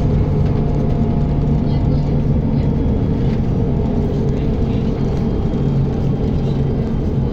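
Interior ride noise of a MAZ-107.468 city bus under way: a steady engine drone and road rumble, with a low hum that shifts slightly in pitch.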